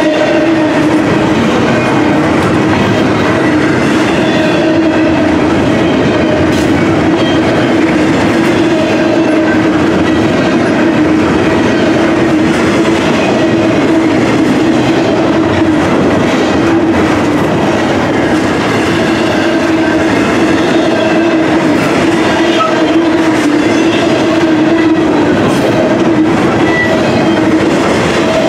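Double-stack intermodal container well cars rolling past at steady speed: continuous wheel-on-rail noise with clickety-clack over the rail joints, and a steady hum running under it.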